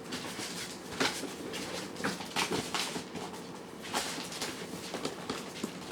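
Cats eating: irregular small clicks, crunches and taps, with clusters about a second in, around two to three seconds in and about four seconds in.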